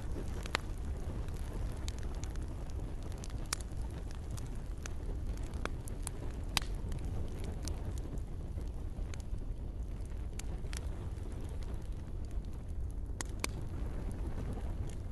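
Campfire burning with a steady low rumble and scattered sharp crackles and pops of wood, a few of them standing out.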